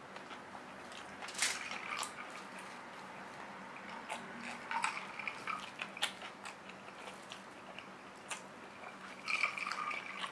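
A person chewing a mouthful of rice and braised pork with the mouth close to the microphone: soft wet chewing and lip smacks with scattered small clicks, a few louder moments at about 1.5, 5 and 9.5 seconds in.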